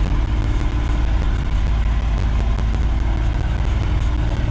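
A 1973 Ford F-250's 360 V8 engine running steadily, with a low, even rumble.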